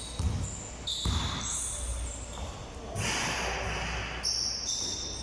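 Basketballs bouncing on a hard court in a large hall, with short high-pitched squeaks.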